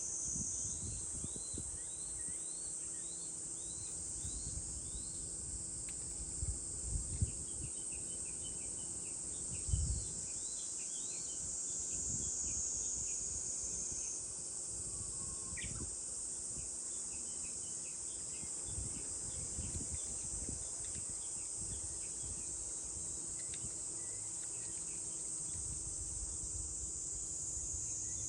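Cicadas buzzing in a steady, high chorus, with a small bird giving runs of short, quick chirps over it. Low rumbles come and go, the strongest about a third of the way in.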